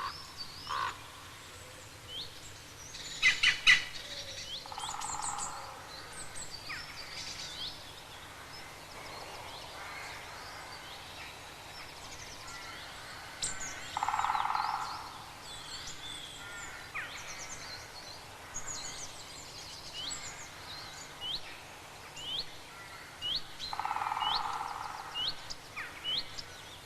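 Woodland birdsong: many small birds chirping and calling at once in short, quick, high notes, with a louder burst of calls about three seconds in.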